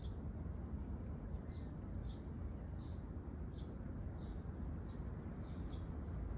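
A small bird calling over and over with short, high chirps that slide downward, more than one a second, over a steady low rumble.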